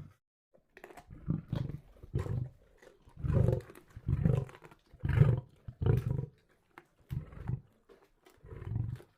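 Lion roaring: a run of deep, short grunting calls that grow louder toward the middle, then come more slowly and fade near the end.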